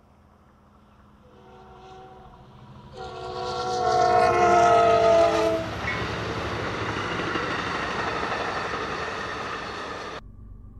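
Passenger train's horn sounding as the train passes: faint at first, then a loud chord for about three seconds that drops slightly in pitch. After it comes the steady noise of the train running by, which cuts off abruptly near the end.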